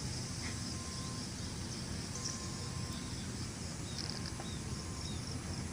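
Outdoor ambience of small birds giving short high chirps, with a steady low rushing noise underneath.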